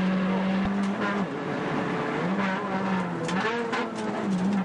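Suzuki Swift 1.3 rally car's four-cylinder engine heard from inside the cabin, held at high revs, then lifting off about a second in and revving down and up again several times on the approach to a bend.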